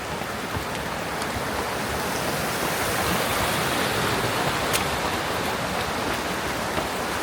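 Steady rush of falling water, growing louder toward the middle and easing off a little after.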